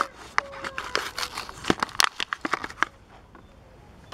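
Hot Wheels blister pack being torn and crinkled open, plastic and card giving a quick run of sharp crackles and snaps that stops about three seconds in.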